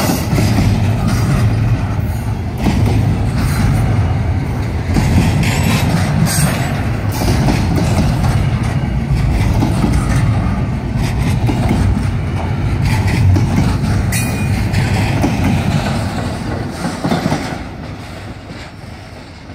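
Double-stack intermodal freight train's well cars rolling slowly past at close range: a steady low rumble of steel wheels on the rails with clicking. The sound fades away in the last few seconds as the end of the train passes and draws off.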